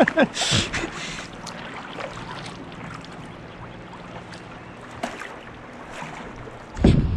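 River water rushing and splashing around a canoe in moving current, with a brief splash about half a second in. A strong gust of wind buffets the microphone near the end.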